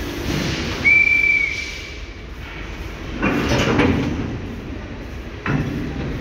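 Railway carriages moving on a workshop traverser: a steady low rumble, with a high whistle-like squeal held for about a second and a half starting about a second in. There are two sudden bursts of noise, one about three seconds in lasting about a second and a shorter one near the end.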